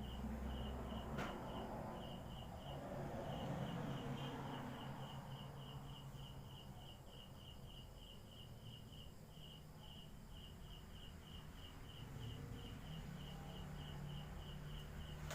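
A night insect chirping in a steady, even pulse, about three chirps a second, over a low hum. One sharp click comes about a second in.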